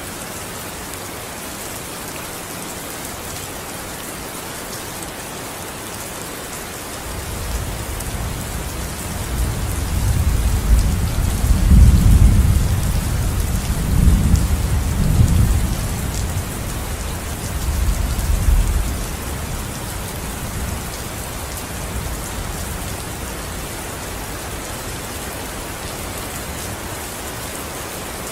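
Steady heavy rain hissing on surfaces, with a long roll of thunder that builds about a quarter of the way in, rumbles loudest in the middle in several swells, then fades away, leaving the rain alone.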